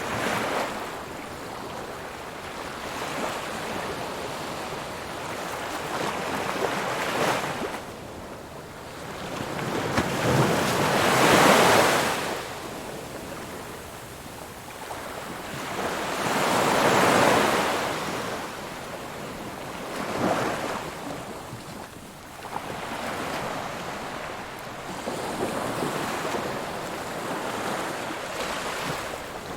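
Ocean waves breaking and washing in, a steady surf hiss that swells and ebbs every few seconds. The two loudest breakers come about ten and seventeen seconds in.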